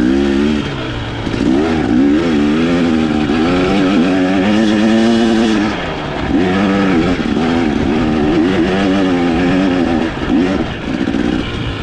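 Dirt bike engine running under load on a trail, its pitch rising and falling over and over as the throttle is worked, held high for a couple of seconds in the middle.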